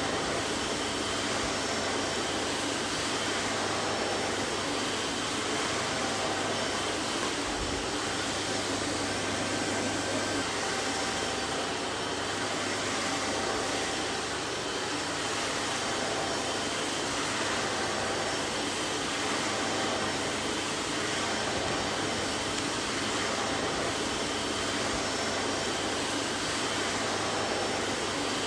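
Vacuum cleaner running steadily: an even rushing noise with a faint low hum and a few thin steady tones.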